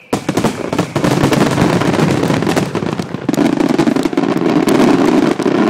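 Aerial fireworks going off in a dense barrage: a sudden start, then rapid, overlapping bangs and crackling that keep going without a break.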